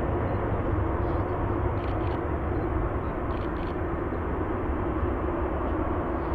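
Jet airliner engines running, a steady rumble with a faint underlying hum.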